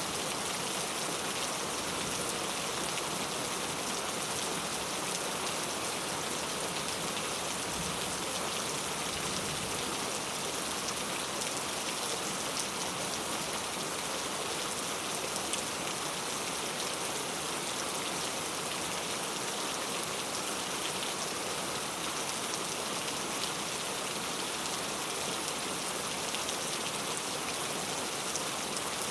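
Heavy rain falling steadily on street surfaces: a dense, even hiss with fine drop patter throughout.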